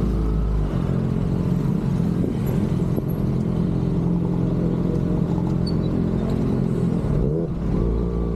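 Kawasaki ZX-6R inline-four motorcycle engine running steadily at low road speed in traffic, with a brief drop and rise in engine pitch about seven and a half seconds in.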